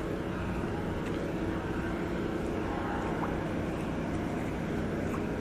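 Steady engine drone with a wash of noise beneath it, unchanging throughout.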